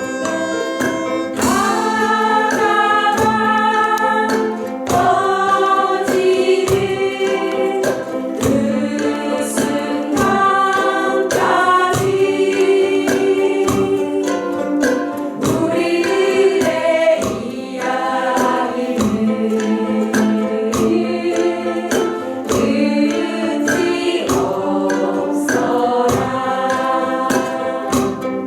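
A group of about thirteen people singing together to a steady strummed rhythm on ukuleles.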